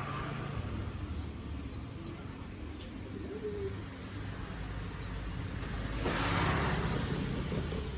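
A few faint, high chirps from a konin (kolibri ninja) over a steady low rumble and hiss. The background noise swells for about a second, about six seconds in.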